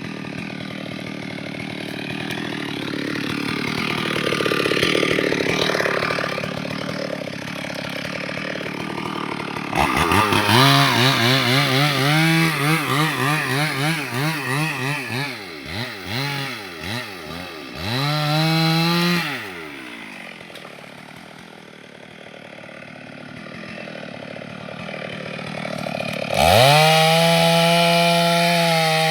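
STIHL MS 382 single-cylinder two-stroke chainsaw. After about ten seconds of rough, noisy running without a clear engine note, it revs up sharply, its throttle pulsed up and down rapidly for several seconds, then held high before dropping back. It revs to full throttle again near the end.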